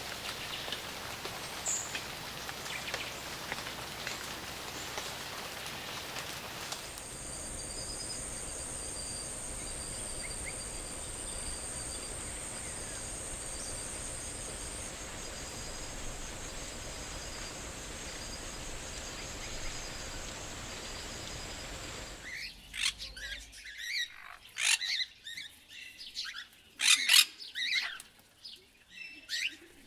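Rainforest ambience: a steady hiss at first, then from about seven seconds a steady high-pitched whine with a faint pulsing trill over it. About 22 seconds in it gives way to a quieter background with a run of loud, sharp bird chirps.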